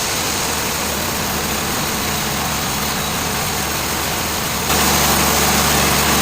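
Heavy machine engine running steadily under a loud hiss. About three-quarters of the way through it becomes louder and more even.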